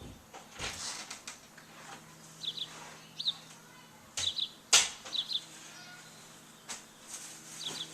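Small birds chirping in short doubled chirps, repeated every second or so, mixed with several brief rustles or flutters, the loudest a sharp one near the middle.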